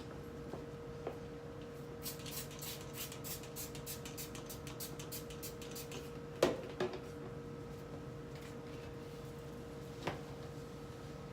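Steady hum under household handling noises while a refrigerator is being cleaned: a rapid run of ticks, about six a second, lasting around four seconds, then a sharp knock halfway through and a lighter one near the end.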